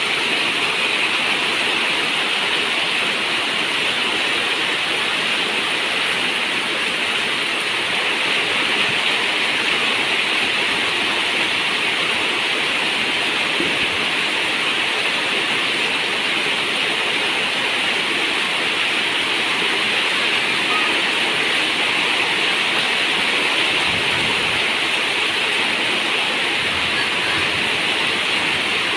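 Steady rain on a zinc roof: a dense, even hiss of water that keeps up without a break.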